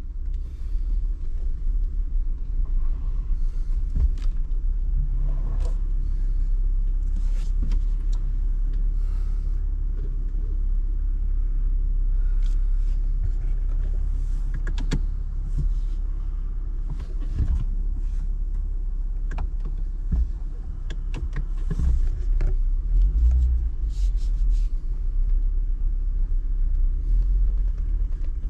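Off-road vehicle crawling over a rough, rocky dirt road. A steady low rumble of engine and tyres runs underneath, with scattered knocks and rattles.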